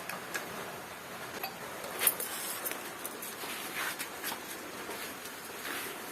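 Scattered light clicks and taps, like small tools or metal parts being handled, with the sharpest click about two seconds in, over a low steady background.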